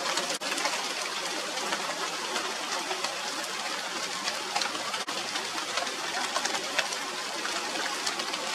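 Steady rain falling on the leaves of a China doll tree (Radermachera sinica): a dense hiss studded with many individual drop hits. The sound drops out for an instant twice, about half a second in and about five seconds in.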